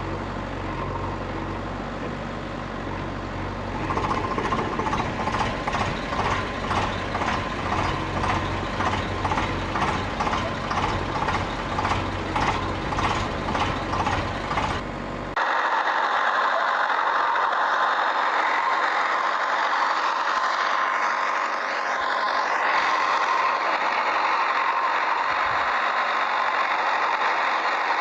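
A running motor: a low steady hum that begins pulsing about twice a second, then an abrupt change about halfway through to a steady, higher whirring.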